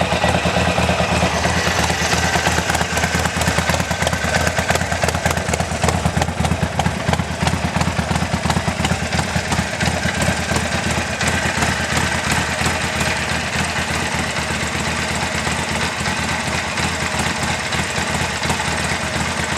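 Harley-Davidson Sportster 1200's air-cooled V-twin idling steadily through Chrome Works aftermarket mufflers, with an even, rapid exhaust beat.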